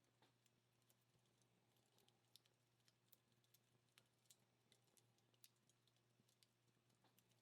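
Wood campfire burning down, crackling faintly: small sharp pops and ticks at irregular intervals over a low steady hum.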